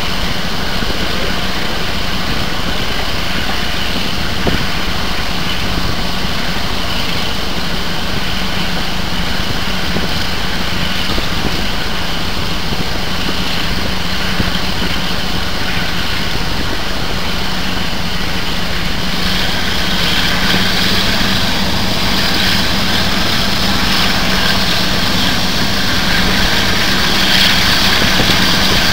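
Passenger train running along the line, heard from an open carriage window: a steady diesel locomotive engine hum from the front, with wheel and rushing-air noise. The hiss grows louder from about two-thirds in.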